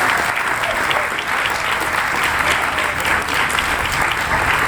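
Audience applauding steadily after a taiko drum performance.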